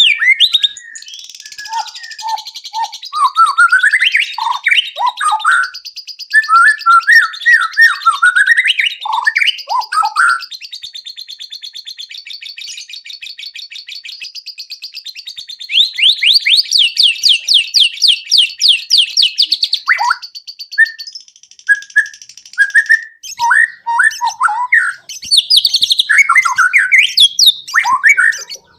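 White-rumped shama singing a long, loud, varied song of whistles and quick phrases, with a fast run of repeated notes a little past halfway, over a steady high chatter.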